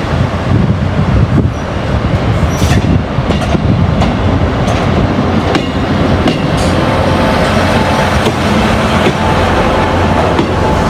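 Passenger train running through the station, a steady rumble with wheels clicking over rail joints and points, and a faint high tone in the second half.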